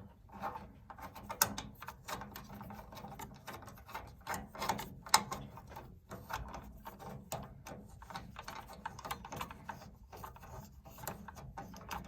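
Irregular small clicks, taps and scraping of metal tubing and fittings being handled and pushed into place by hand while hooking up a water heater's burner assembly, with two sharper knocks about one and a half and five seconds in.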